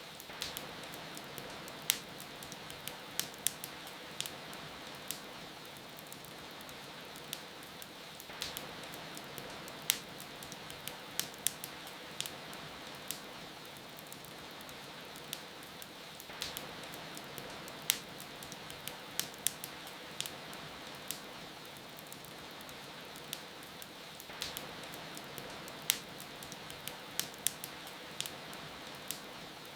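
Wood fire crackling in a fireplace, with sharp irregular pops that come in clusters every few seconds, over a steady hiss of falling rain.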